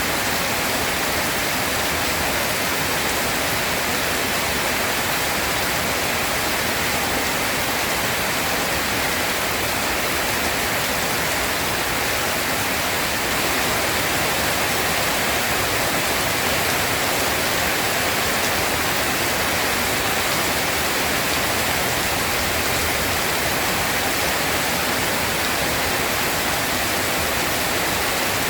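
Steady rain, an even hiss that holds without a break.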